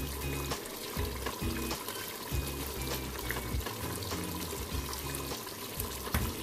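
Beef pieces frying in masala in an aluminium pressure cooker, a steady sizzling hiss, with soft music underneath.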